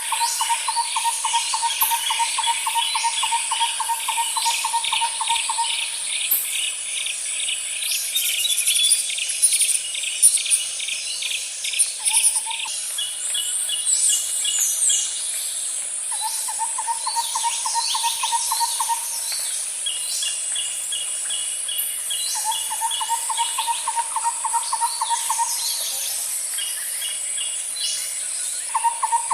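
Nature ambience of insects and birds. A steady high insect drone runs throughout, with pulsed insect trills higher up and scattered bird chirps. A low, even trill of rapid notes comes back about five times, each run lasting a few seconds.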